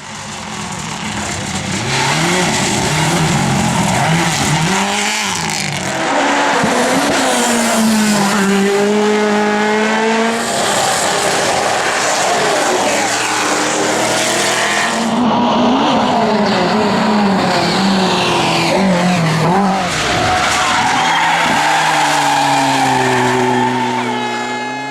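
Race car engine revving hard at full throttle, its pitch climbing and dropping again and again as it shifts through the gears and brakes for the hairpins.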